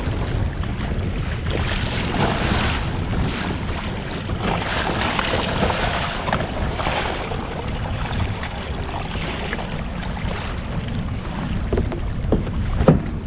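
Gusty wind buffeting the microphone, with choppy waves splashing against a pedal fishing kayak's hull; the wash swells and fades in surges, with a few sharp knocks near the end.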